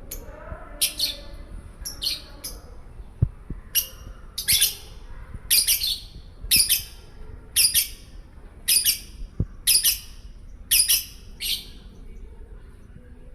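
Lovebird practising its 'konslet' song: a series of short, shrill, high chirps, a few scattered at first, then about one a second for several seconds before stopping near the end.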